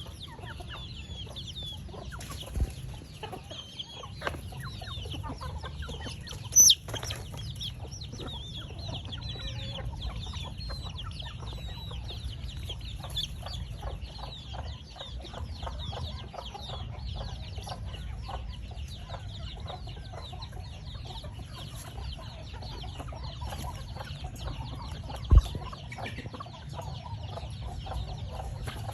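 A crowd of young poultry chicks peeping continuously in fast, high, overlapping cheeps, over a steady low hum. A few sharp knocks, two of them loud, about a quarter and near the end.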